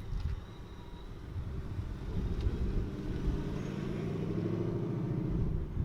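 Mustang drag car's engine idling loud and rumbling after a cold start, growing louder and steadier about two seconds in.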